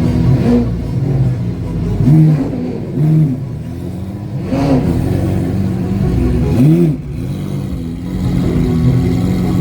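Sports car engine revved in several quick blips, its pitch rising and falling back to a steady idle between them.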